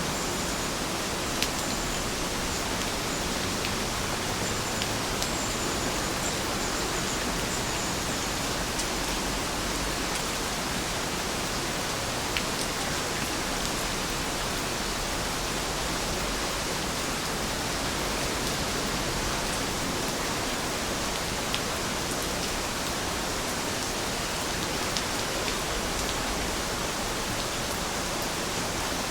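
Steady rain falling, an even hiss with a few distinct drops ticking sharply now and then.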